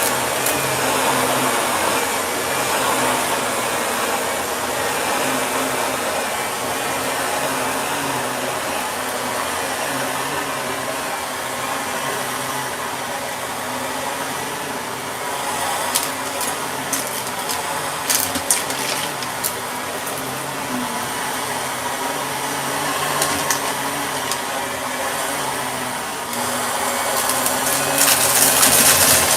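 Shark vacuum cleaner running steadily, a motor hum over a wide rushing hiss. A scatter of sharp clicks and rattles comes about halfway through, and the sound grows louder near the end.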